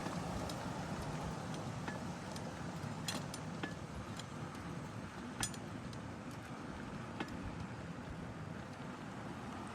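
Steady rolling noise of a bicycle ride, with a few sharp clicks and rattles from the bike, the strongest about five and a half seconds in.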